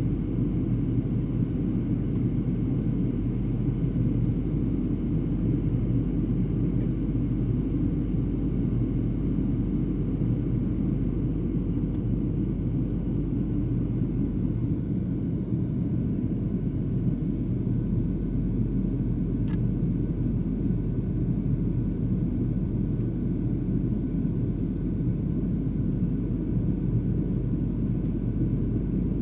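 Steady low rumble of an airliner cabin in flight: engine and airflow noise heard from a passenger seat.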